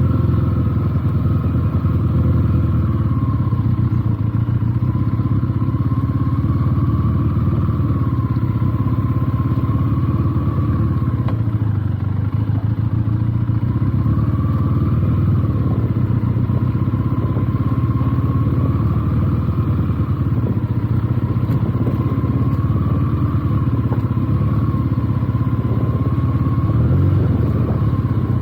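Benelli TNT 300's parallel-twin engine running at fairly steady, moderate revs while the bike is ridden off-road, the pitch rising and falling gently every few seconds.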